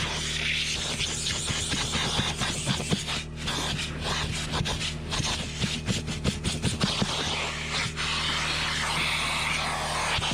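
Vacuum cleaner running steadily, with a run of quick scrapes and clicks in the middle as the nozzle works over the interior.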